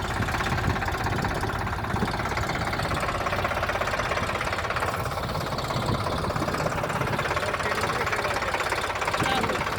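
Tractor engine running steadily at an even speed, with a rapid, regular firing beat.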